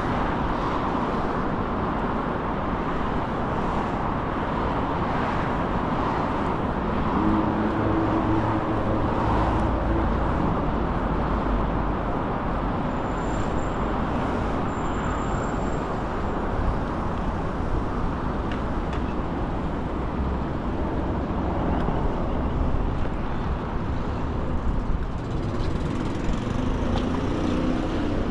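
Steady wind rush and road noise from an electric bike being ridden along a street on pedal power, with traffic noise around it.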